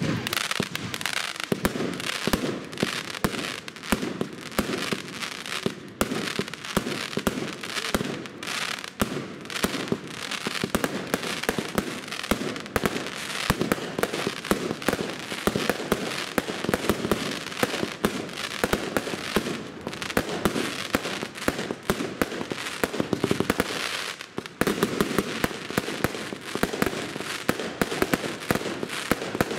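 Fireworks display: a dense, unbroken barrage of launches, bangs and crackling bursts.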